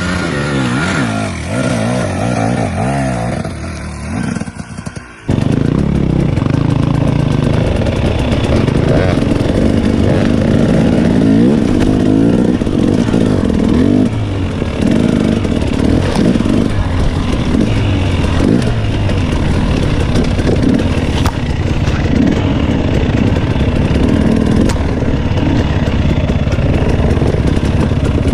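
Dirt bike engine on a trail ride, revving up and down repeatedly for the first few seconds. About five seconds in it cuts abruptly to a denser, steady engine rumble that lasts to the end.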